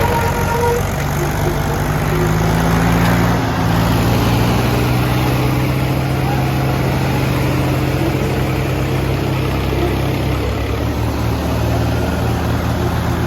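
Tractor diesel engines running hard under load in a tug-of-war pull, a steady heavy drone whose pitch shifts about three and a half seconds in and again near the end.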